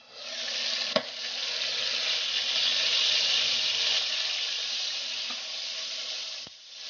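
Pork chops frying in hot oil in a nonstick pan, a loud steady sizzle that starts suddenly as the glass lid is lifted off. A single sharp click comes about a second in, and the sizzle dips briefly near the end.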